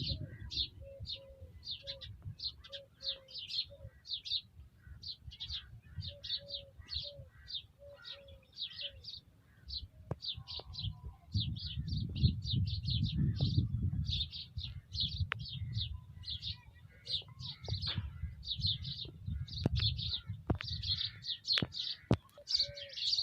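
Small birds chirping busily in quick, repeated short notes, with a lower short call repeated in runs at the start and end. Under it a low rumble that swells in the middle.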